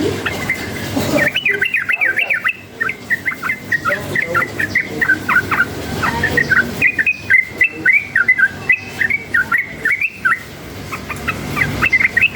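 Yellow-vented bulbul (trucukan) singing vigorously, a dense run of quick, bubbly chirping notes that picks up about a second in and keeps going.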